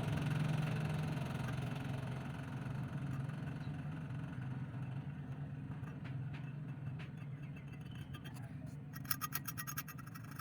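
A steady low mechanical hum from a workshop machine that gradually fades away, with a quick run of sharp clicks near the end.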